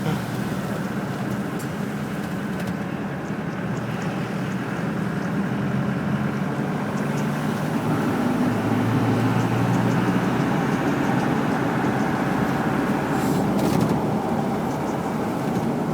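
Land Rover Defender 90 engine running steadily as the vehicle drives through flood water on a road, the engine getting a little louder about halfway through.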